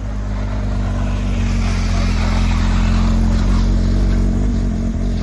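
Porsche sports car engine running at a steady low pitch, growing louder over the first two seconds or so and then holding, with a hiss of road noise over it.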